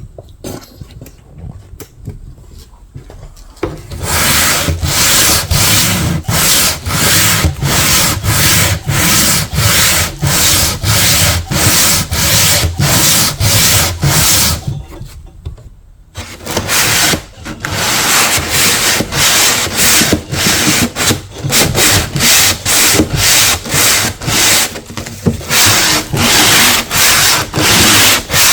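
Hand sanding of old paint and finish on wood: quick, even back-and-forth rubbing strokes, about two a second. The strokes start about four seconds in and break off briefly around the middle.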